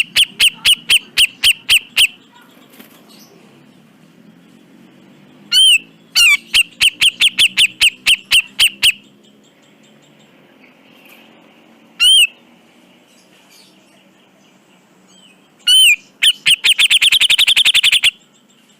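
Cucak jenggot (grey-cheeked bulbul) calling in loud bouts. Each bout opens with one or two arched notes and runs into a string of sharp notes about five a second. Near the end comes a bout of fast rattling notes.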